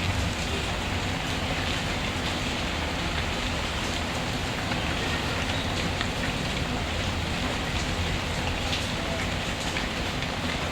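Steady rainfall with scattered small clicks and pops, a wood fire crackling faintly in the mix.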